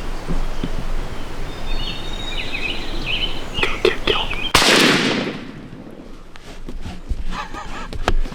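A single loud shotgun blast a little past halfway through, dying away over about half a second. Before it, birds call faintly over outdoor ambience.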